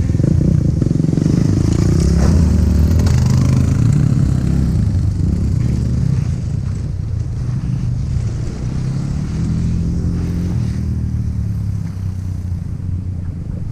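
Off-road vehicle engine running hard, its pitch rising and falling with the throttle, easing to a lower, uneven speed about six seconds in.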